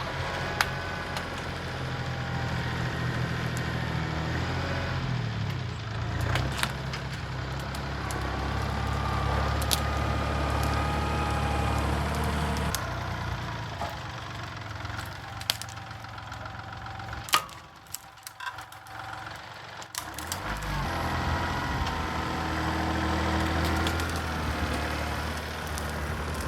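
Kubota L3902 tractor's three-cylinder diesel engine working under load as the loader grapple pushes on a tree, with several sharp cracks and snaps of splintering wood. The engine eases off for a few seconds about two-thirds of the way through, then comes back up.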